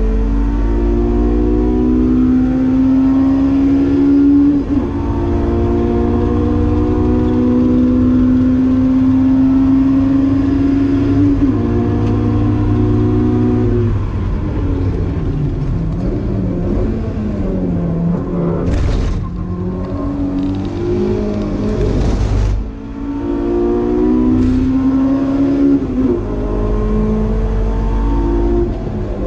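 Honda S2000's F20C four-cylinder VTEC engine heard from inside the cabin under hard acceleration, its pitch climbing steadily and dropping at each of two upshifts in the first half. In the middle it comes off the throttle with the pitch falling and wavering as the car slows, with two short bursts of rushing noise, then it pulls hard again and shifts up once more near the end.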